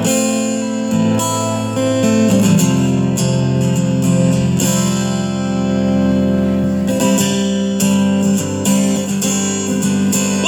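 Acoustic guitar strumming sustained chords in an instrumental passage of a song, with no singing.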